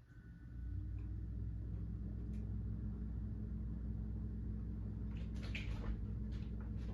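Yamaha V-Max triple snowmobile's three-cylinder two-stroke engine catching on a pull start and settling into a steady idle on choke, a cold start after priming and a carb clean. A few light clatters near the end.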